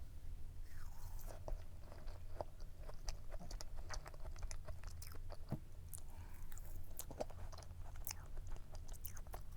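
A person eating cake close to the microphone: soft chewing and biting with many small scattered clicks, over a low steady hum.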